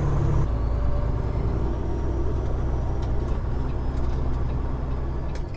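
Peterbilt 389 glider truck's diesel engine running on the road with a steady low note. The note shifts about half a second in and falls away near the end.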